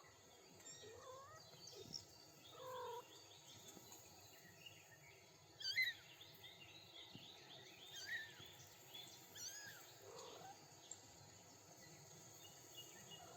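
Songbirds chirping and twittering quietly in the background, with a few faint kitten mews near the start and again about ten seconds in.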